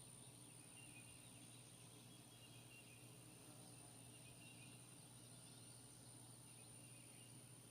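Near silence: faint background noise with a steady high whine and a low hum, and faint scattered chirps that may come from distant birds or insects.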